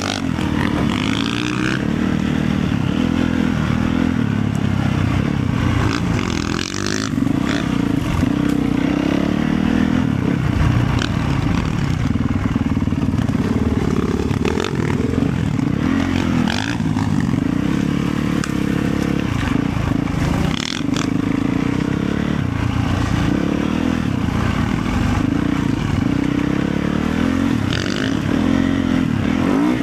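Motorcycle engine running steadily while riding, with a low wavering drone and a few sharp clatters or knocks.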